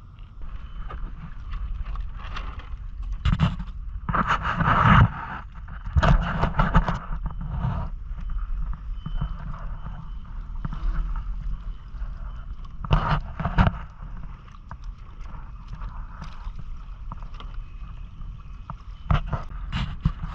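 Water washing and splashing against the hull of a Hobie Island sailing kayak, with wind rumbling on the microphone. Several louder bursts of splashing come and go, the biggest a few seconds in and again in the middle.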